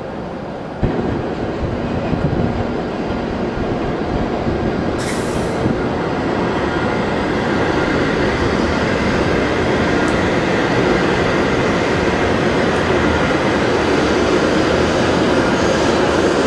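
W7 series Shinkansen train pulling out of the station, its running noise building steadily as the cars roll past. A short hiss comes about five seconds in.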